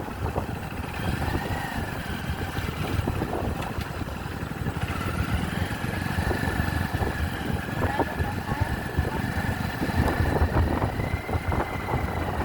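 Motorcycle running on the move, with wind rumbling on the microphone and a thin whine that drifts slightly in pitch.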